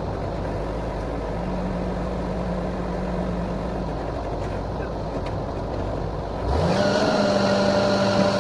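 Borewell drilling rig's engine running steadily, then speeding up and getting louder about six and a half seconds in, holding at the higher speed.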